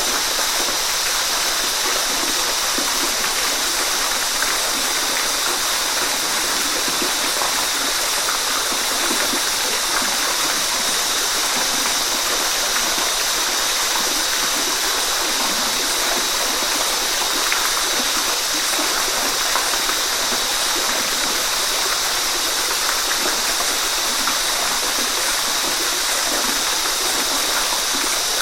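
Waterfall: steady rushing, splashing water, an even hiss weighted toward the high end.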